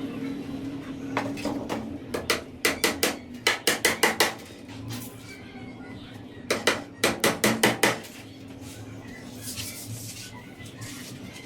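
A hammer tapping on a wooden stick cage in quick runs of about six light strikes a second, each with a short ring: a short run, two longer runs, a pause, then one more run.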